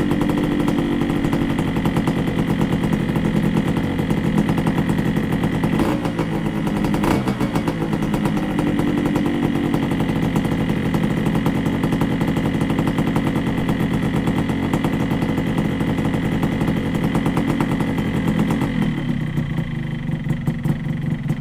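Yamaha RX100 two-stroke single-cylinder motorcycle engine idling steadily, left running in place to warm up after a cold start on choke.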